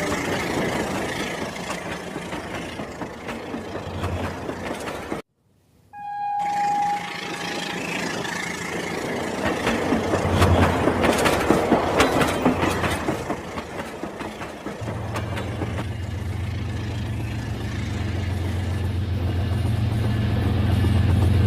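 Battery-powered toy train running with its electronic train sound effects and a rattling, clicking mechanism. The sound cuts out for under a second about a quarter of the way through, a short steady beep follows, and a steady low motor hum comes in during the last third.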